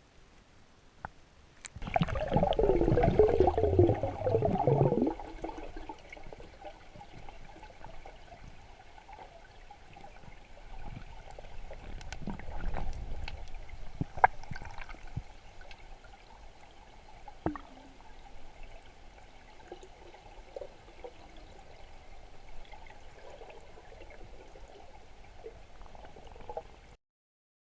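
Water bubbling and gurgling, loud for about three seconds near the start, then a faint steady wash of water with scattered small clicks, which cuts off suddenly near the end.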